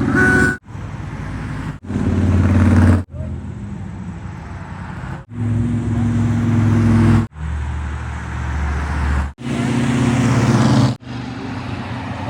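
Engines of classic cars running as they drive past in a parade, heard in a string of short clips that cut off abruptly every one to two seconds, each with a different engine note.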